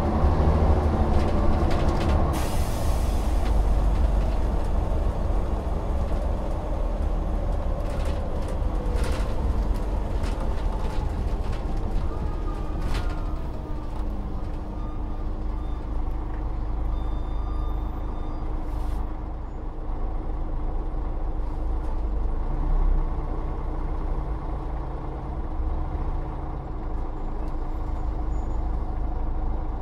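Volvo Olympian double-decker bus running, its engine note falling as it slows, with a hiss of air from the air brakes about two seconds in. It then settles to a steady idling hum, with a few light rattles and clicks.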